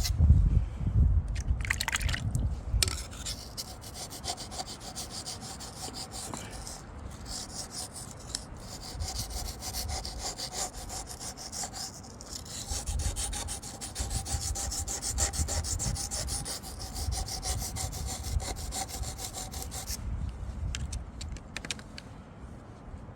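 A knife blade being stroked back and forth on a Wästikivi sharpening stone: a steady scraping rasp with a faint ring from the blade. It stops about three seconds before the end. Wind rumbles on the microphone, most strongly at the start.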